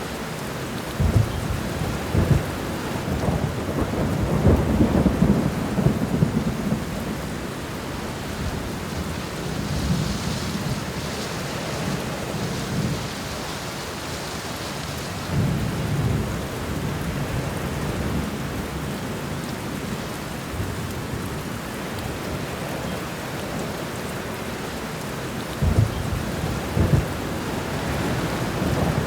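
Steady heavy rain with rolls of thunder: low rumbles swell up about a second in and run for several seconds, again about halfway through, and again near the end.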